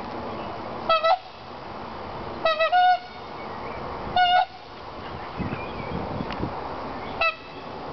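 Tundra swans calling: short, high, honking calls. There is one about a second in, a quick pair, another a little later, and a last one near the end, over a steady background hiss.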